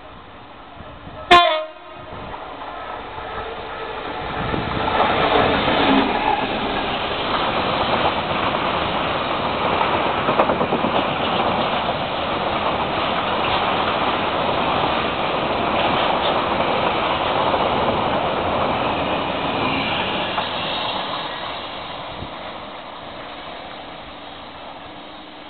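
Class 59 diesel locomotive 59001 (EMD two-stroke V16) gives a short, loud horn blast on approach, then runs past with its engine working and a long train of wagons clattering along behind. The noise swells as the train passes and fades as it draws away.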